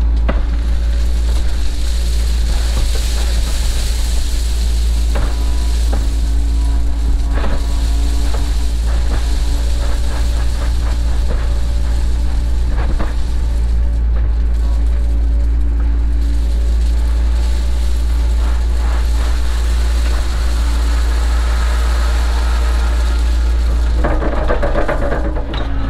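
Cat 307 excavator's diesel engine running at a steady speed, with scattered short knocks and scrapes and a busier clatter near the end.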